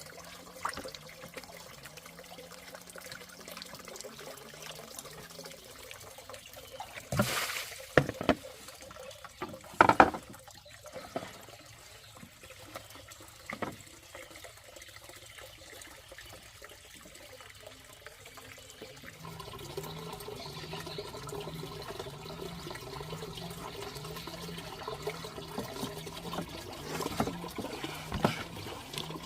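Water trickling steadily, with a few sharp knocks about a third of the way in.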